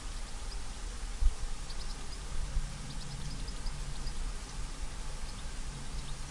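Steady hiss of rain on foliage, with small birds giving many short, high chirps throughout. A low, steady hum of distant road traffic comes and goes from about halfway, and there is a single thump about a second in.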